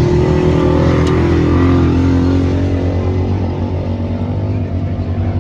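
Racing engines running loud at high revs, their pitch dropping a little about two seconds in.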